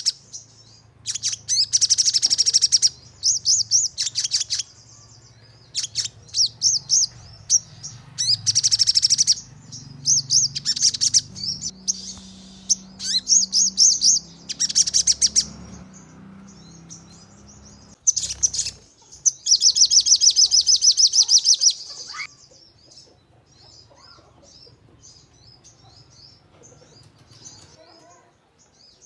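Sogon bird singing in sharp, rapid-fire trilled bursts (the 'nembak' style), bout after bout of fast repeated high notes, the longest near the end; after that only softer scattered chirps remain.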